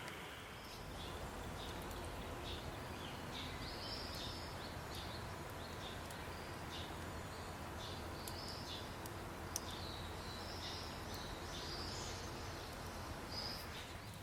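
Small birds chirping in short, irregular calls, many times over, against a steady background hiss.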